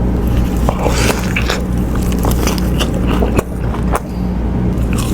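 Close-up eating sounds: bites and chewing, with many short sharp crunches and smacks, over a steady low hum.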